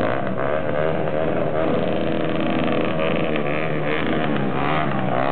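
Several motorcycle engines running at once, their pitch rising and falling as they are revved.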